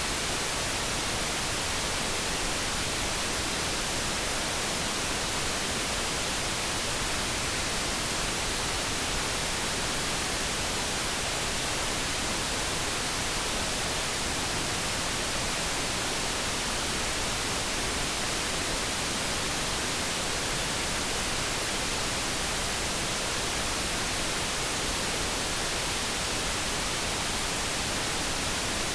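Steady generated light brown noise: an even hiss that stays the same throughout, with no distinct tones or events.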